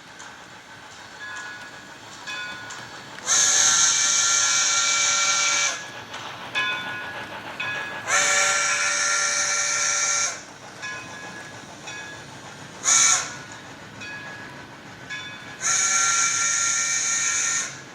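Steam whistle of an HO scale model steam locomotive, played through its onboard sound system, blowing the grade-crossing signal: two long blasts, one short, and one more long.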